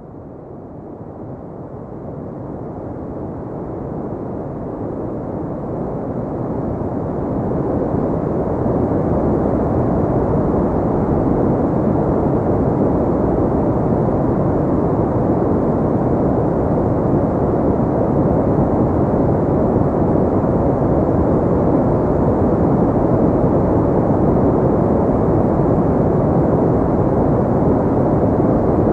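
Synthetic pink noise: an even, muffled hiss weighted toward the low end with little treble. It swells up gradually over the first several seconds, then holds steady.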